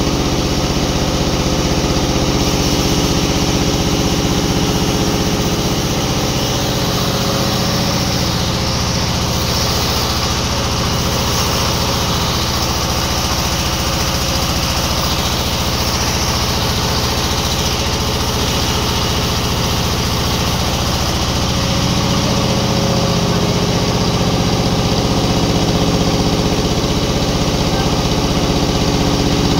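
A sawmill machine's engine running steadily: an even drone made of several steady tones, its low part easing a little for a stretch in the middle before it strengthens again near the end.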